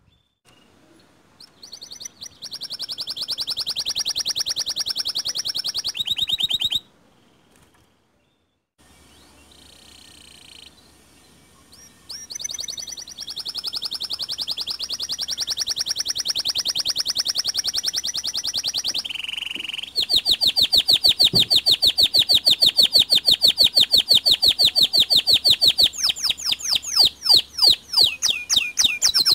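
White canary singing long, fast, rolling trills several seconds each, with short pauses between them, then a run of varied quicker notes near the end.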